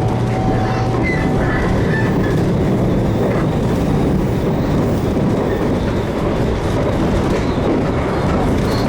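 Inside a JR Kyushu 813 series AC electric train running between stations: the steady rumble of wheels on rail. A low hum that has been running stops about a second in.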